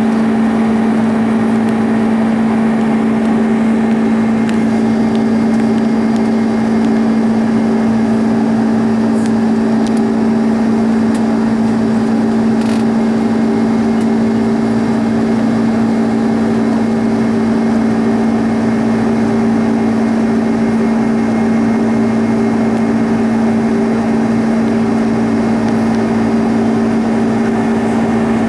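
Airbus A310 airliner's cabin noise in flight, heard from a passenger seat: a steady drone of engine and air noise with a constant low hum running through it.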